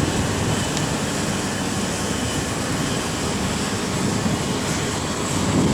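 Diesel engine of a Hydrema 912 articulated water truck running steadily, with a constant rumble and hiss.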